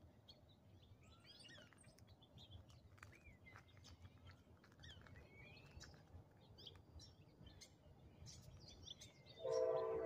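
Faint, scattered bird chirps and short whistled calls over a low outdoor hiss. Near the end a louder train horn starts up, a steady chord of several tones.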